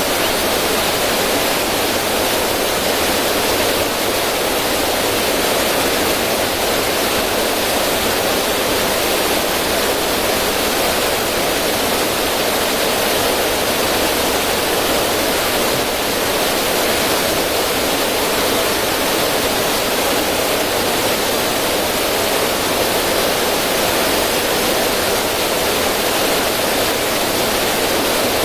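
River water rushing and splashing over rocks in a small cascade, a steady, unbroken rush.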